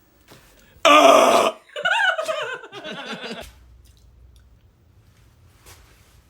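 A person making a vocal sound effect: a loud, harsh, noisy blast about a second in, then a wavering pitched vocal noise that bends up and down and dies away about three and a half seconds in.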